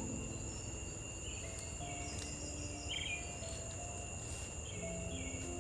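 Outdoor nature sound: insects hold a steady high drone, and short bird chirps come every second or so. Faint held low notes sound in the background.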